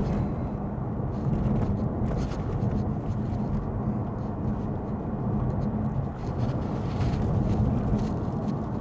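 Steady in-cabin road noise of a Lexus ES 350 F Sport cruising on a rain-wet road: tyres on wet pavement over the low hum of its 3.5-litre V6.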